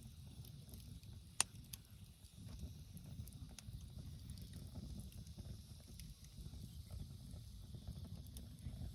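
Wood campfire crackling: one sharp pop about a second and a half in, and scattered smaller crackles over a low steady rumble.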